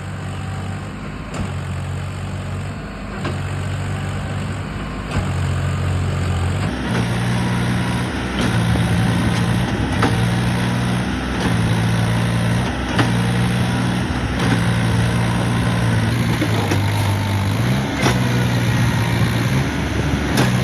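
Farmtrac diesel tractor engine running while pulling a trolley. Its note steps up about seven seconds in, then dips and recovers every second or two as the load changes.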